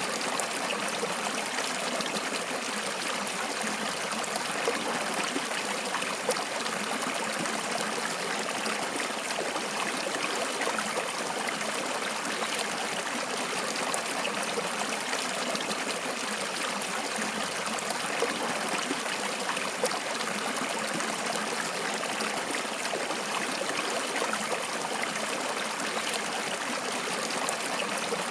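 Water flowing in a stream, a steady rushing and trickling with small splashes now and then.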